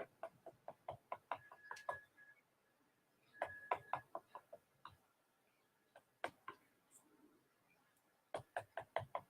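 Light, quick clicks and taps from paint containers and tools being handled, in four bursts of several strokes each with short pauses between.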